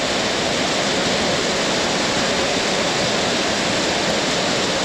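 Heavy tropical rain pouring down steadily.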